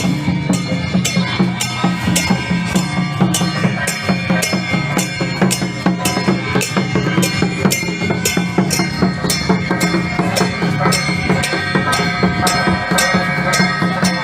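Procession music with drums and percussion beating a steady, even rhythm over a sustained droning melody.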